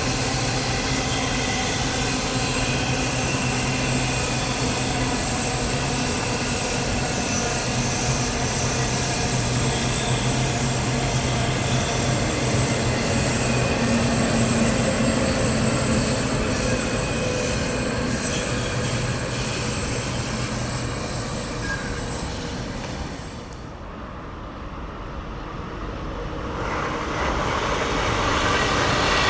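Train running past on the line, a steady loud rumble carrying several steady whining tones. About 23 seconds in it dies away, and a new rail sound builds again near the end.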